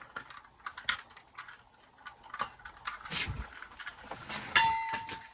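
Scattered light clicks and taps of hands handling small copper fittings and tools while plumbing, with a short steady high-pitched tone lasting about a second near the end.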